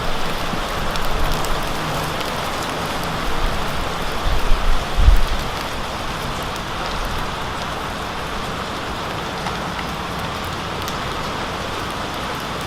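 Steady rain falling, with scattered drops ticking. A few low thuds come about four to five seconds in.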